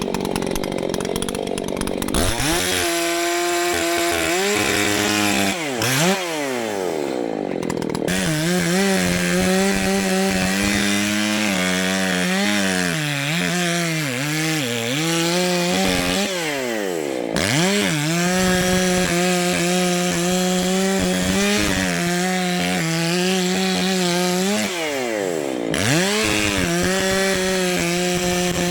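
Gasoline chainsaw at full throttle, cutting into a large tree trunk. Its revs sag and sweep back up several times as the chain loads up in the cut and frees again.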